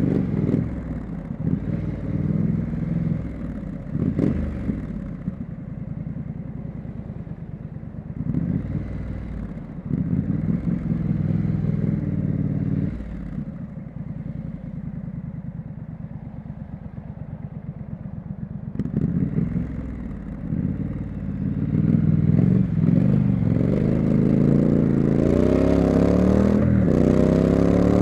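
Triumph Street Scrambler's parallel-twin engine and exhaust under way, revving up and down with the throttle. It eases off and runs quieter for several seconds in the middle, then pulls hard near the end, climbing steadily in pitch.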